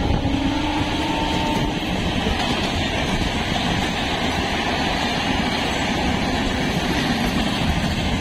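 Electric multiple-unit (EMU) suburban local train running at speed, heard from on board: a steady rumble and rush of wheels on rail. A train horn's tone fades out in the first two seconds.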